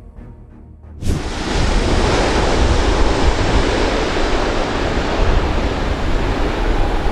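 Music cuts off about a second in, and a loud, steady rushing noise with a heavy low rumble starts abruptly, like wind buffeting a camera microphone.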